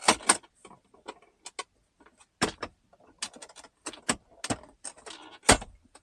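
Plastic clicks and knocks from a newly installed center console jump seat lid being worked: latch and hinge clicking as it is opened and shut. A run of separate sharp clicks, loudest near the start and about five and a half seconds in.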